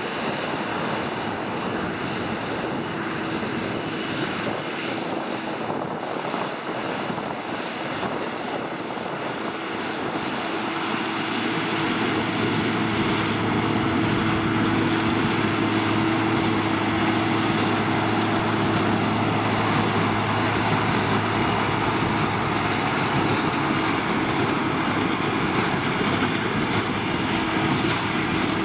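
Case IH Puma 215 tractor running under load as it pulls a Massey Ferguson 2170 baler while baling. It grows louder about ten seconds in and then holds a steady, even hum.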